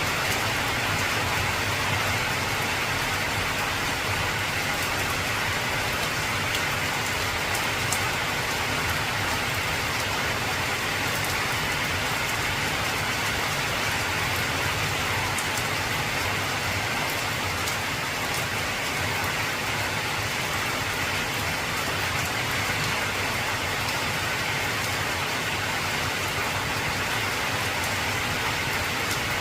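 Heavy rain falling steadily on an old tin (corrugated zinc) roof: an even hiss of rain with scattered drop ticks, and no thunder.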